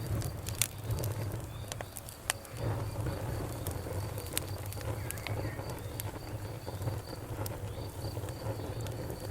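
Fire crackling, with irregular sharp pops over a steady low rumble. A faint, steady high trill of insects, such as crickets, runs behind it.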